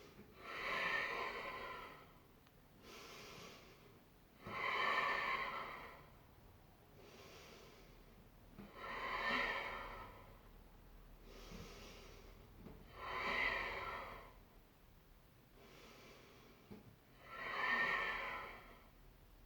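A woman's deep, rhythmic breathing under the effort of a core exercise: five strong breaths about four seconds apart, each with a softer breath between.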